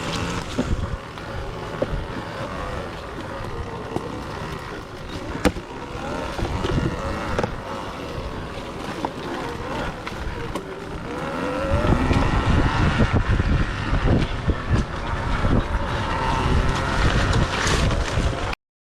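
Off-road riding noise from an electric trials motorcycle on a rough trail: wind buffeting the microphone over scattered knocks and rattles, with no engine note. It gets heavier about two-thirds of the way in, then cuts off suddenly near the end.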